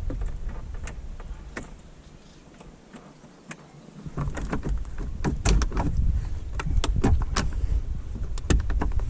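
Scattered sharp clicks and knocks from handling the outboard's controls, with a quieter stretch early on. There is no starter cranking or engine running: the outboard does not respond when put to start, not even with a starter click.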